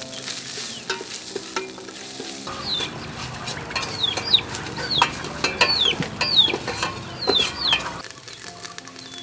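Pounded Khmer spice paste (kroeung) sizzling in hot oil in a metal pot as a metal ladle stirs it, with frequent clicks and scrapes of the ladle against the pot. It grows louder after about two seconds, and a run of short, high, falling chirps runs through the middle.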